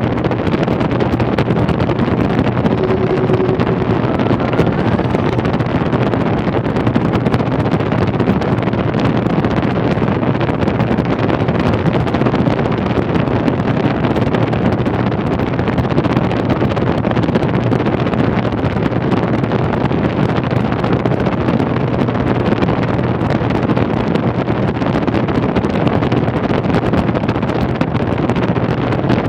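Washing machine on its spin cycle: a loud, steady rushing noise with a low hum underneath.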